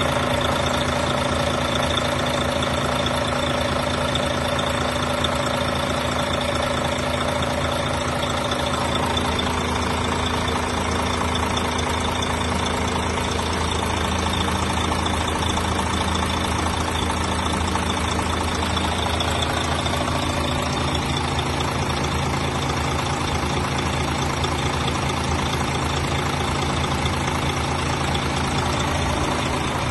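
Diesel engine of a VDL Futura FHD2 coach idling steadily, a constant low hum with a few steady tones above it.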